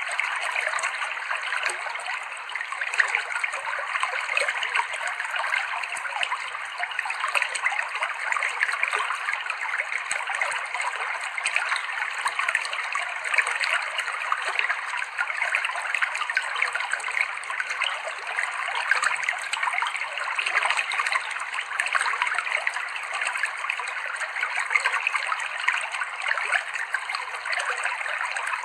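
Clear, shallow river water flowing and trickling over rocks, a steady babbling with fine splashing and no breaks.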